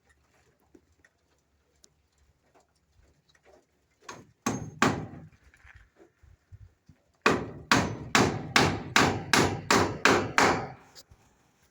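Hammer blows: three strikes about four seconds in, then a steady run of about nine strikes, a little over two a second, near the end.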